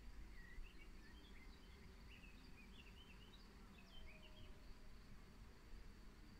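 Faint birdsong: many short, quick chirps and twitters from small songbirds, thickest in the middle, over a quiet outdoor background with a faint steady high buzz.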